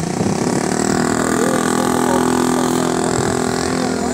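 A vehicle engine running steadily, its pitch holding even.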